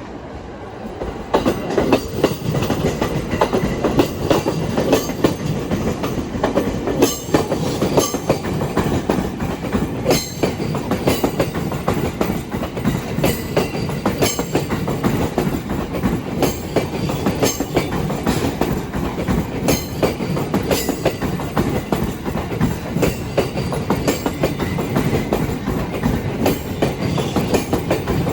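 Sobu Line electric train passing, its wheels striking the rail joints in a continuous clickety-clack over the rumble of the cars. It grows loud about a second in and keeps going steadily.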